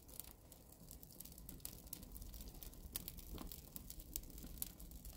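Wood fire crackling faintly in a wood-burning pizza oven as it catches: scattered sharp pops and ticks over a low hiss.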